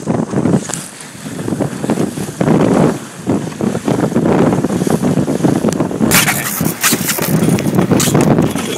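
Wind buffeting a phone's microphone on a small sailboat in strong wind, gusting up and down, with water rushing past the hull. A louder, harsher burst of noise comes about six seconds in.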